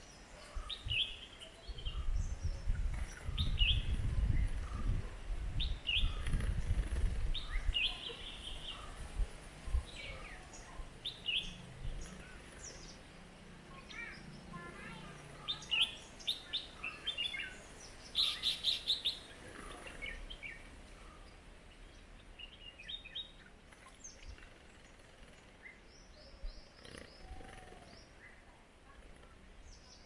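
Birds chirping: short high chirps every second or so, with a quick run of them about 18 seconds in. A low rumble lies under the first several seconds.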